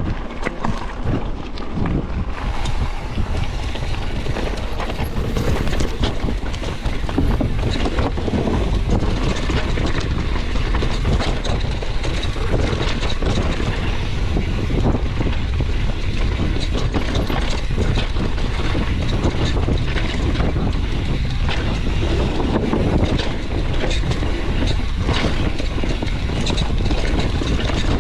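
Skis scraping and chattering over hard snow, a continuous rough rushing noise with many small irregular knocks, with wind on the microphone.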